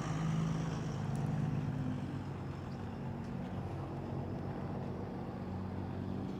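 An engine running steadily, a little louder in the first two seconds.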